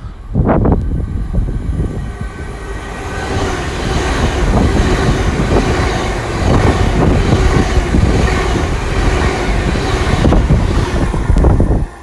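Nine-car GWR Class 802 IET passing through on diesel power, its engines and wheels on the rails building to a loud, steady rumble from about three seconds in. A short sharp sound comes about half a second in.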